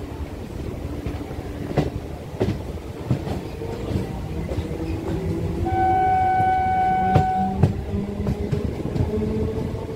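Electric suburban local train running on the rails, with a steady rumble and occasional sharp clicks of the wheels over rail joints. About six seconds in, a train horn sounds one steady note for about two seconds.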